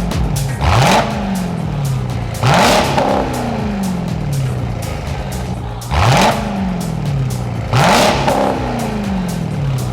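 2022 Dodge Durango Hellcat's supercharged 6.2-litre V8 revved four times through a GT Haus aftermarket exhaust. Each rev climbs sharply and then falls back slowly to idle.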